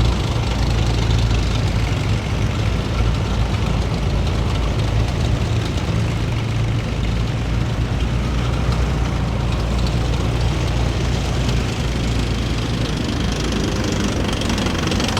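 Heavy military vehicles' engines running steadily at low speed, a deep, continuous drone with some added higher-pitched engine noise near the end.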